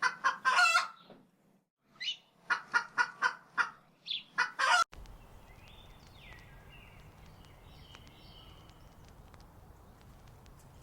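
Domestic fowl calling: a couple of loud calls, a short pause, then a quick run of calls about three a second, which cuts off suddenly about five seconds in. After it, a quiet steady hiss with a few faint high chirps.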